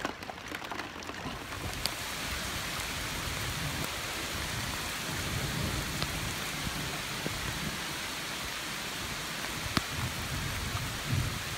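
Heavy rain pouring down steadily in a thunderstorm, with low rumbles of thunder now and then and a few sharp ticks.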